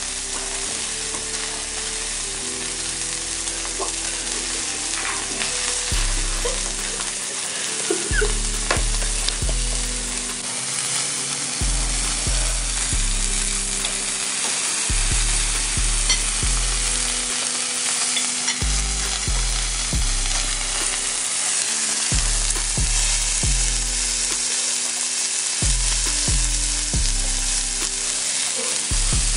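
Food sizzling as it fries, an even crackling hiss, with music playing underneath; a deep bass beat comes in about six seconds in.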